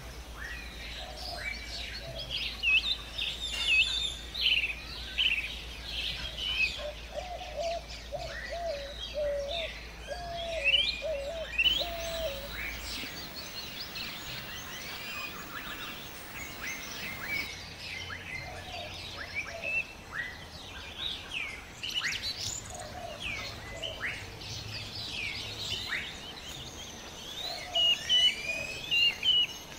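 Wild birds chirping and singing, many short high calls overlapping throughout, with a run of lower repeated notes about a third of the way in.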